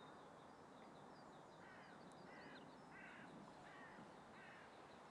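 Faint, distant bird calls: a run of five calls about two thirds of a second apart, starting about a second and a half in, with faint high chirps of small birds scattered throughout.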